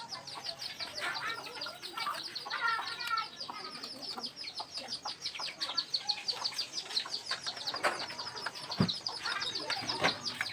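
Chickens clucking, over a fast, continuous high-pitched chirping, with a few sharp knocks near the end.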